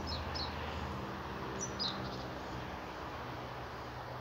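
A small bird giving short, high, falling chirps: a quick pair near the start and another pair a little under two seconds in, over a steady outdoor hiss with a faint low hum.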